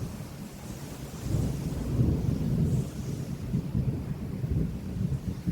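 Rolling thunder rumbling, building about a second in, strongest around two seconds, then trailing off.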